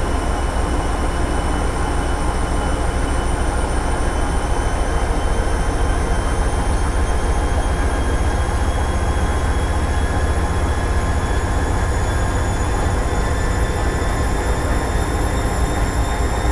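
Hoover Ecologic 800 automatic washing machine running, with a steady low rumble and a motor whine that rises slowly in pitch.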